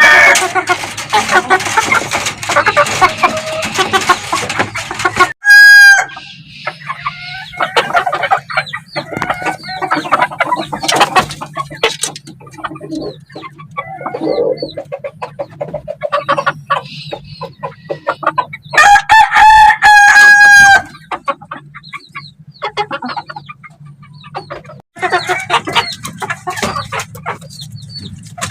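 Chickens clucking, with roosters crowing: a short loud crow about five seconds in and a long crow of about two seconds past the middle.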